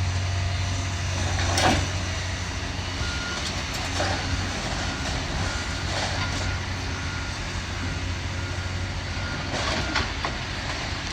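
Heavy demolition machinery running with a steady low engine hum, its reversing alarm beeping evenly for several seconds through the middle. Several sharp knocks and crashes of debris being worked break in, the loudest about two seconds in and another near the end.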